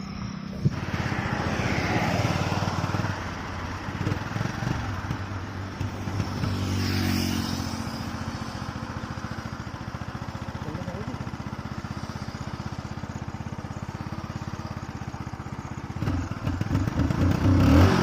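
Hero HF Deluxe motorcycle's small single-cylinder four-stroke engine running, mostly a steady idle with an even pulse, getting louder and rougher near the end as it is revved. A louder sweep that rises and falls passes about seven seconds in.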